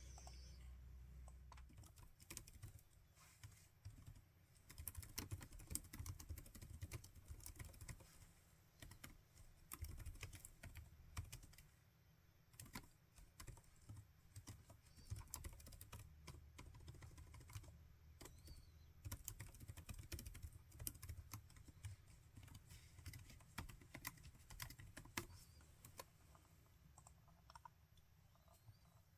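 Typing on a laptop keyboard: quick, irregular runs of soft key clicks with short pauses, starting about two seconds in and thinning out near the end.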